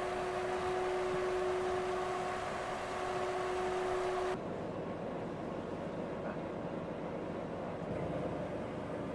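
A vehicle running, a steady noise with a steady hum over it; about four seconds in the sound changes abruptly, the hum dropping out and a thinner running noise going on.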